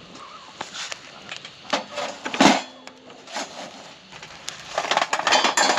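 Clinks and knocks of cookware and utensils being handled, with one louder knock about halfway through and a busier clatter near the end.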